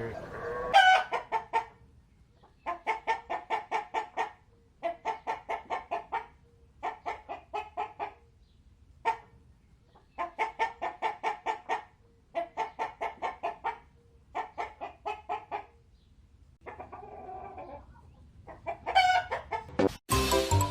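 Hen clucking in repeated bouts of rapid clucks, each bout about a second and a half long. A louder call comes about a second in and again near the end.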